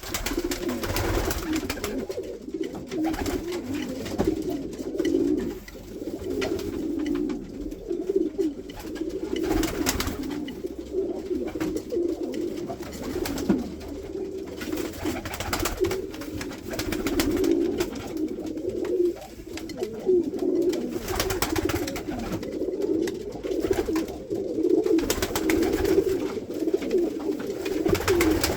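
Pakistani pigeons cooing continuously in overlapping low coos, with a few short clicks.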